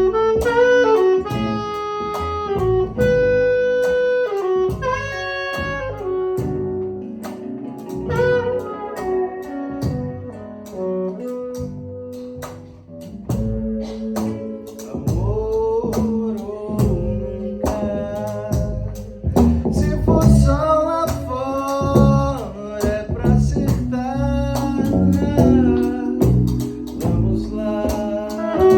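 Live band music: a jazzy passage with a melodic lead line over bass and drums, the cymbals keeping a steady beat.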